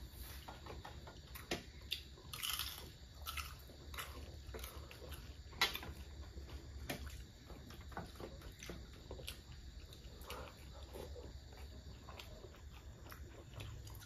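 Close-miked chewing and biting of Filipino street food: wet mouth smacks and small clicks, with a couple of louder bites about two and a half and five and a half seconds in.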